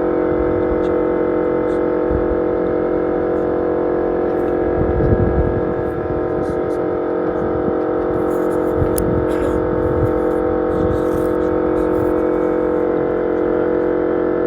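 A motor running steadily with a constant droning tone, with a burst of low rumbling about five seconds in.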